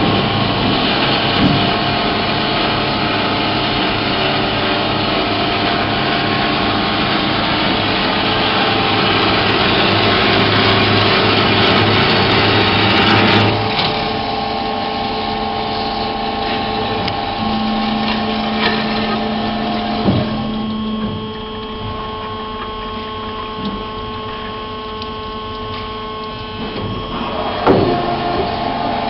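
Pegas Profi 400 double-column metal-cutting band saw running: a steady machine whine with a dense hiss and a low hum. About halfway through the hiss and hum drop away, leaving a quieter running hum, with a few knocks near the end.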